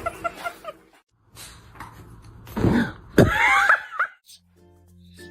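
Two loud, throaty vocal sounds in a row, like a cough or throat clearing, over a low hum. Light tinkling music starts near the end.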